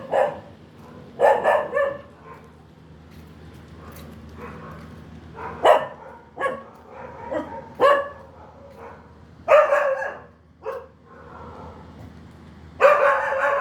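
A dog barking in irregular single and double barks a second or several seconds apart, the last one longer.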